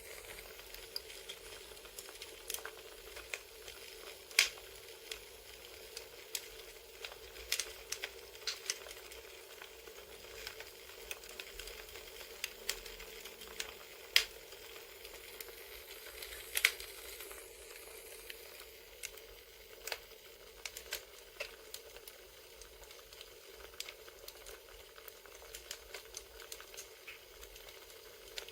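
Recorded campfire crackling: a steady soft hiss with irregular sharp pops and snaps of burning wood.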